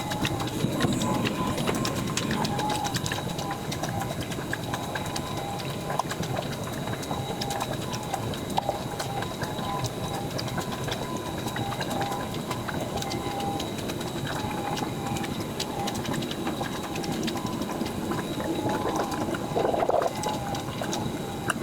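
Premixed coolant pouring into a spill-free filling funnel on a Mercedes Sprinter's cooling system. It glugs and bubbles steadily as the system takes in coolant.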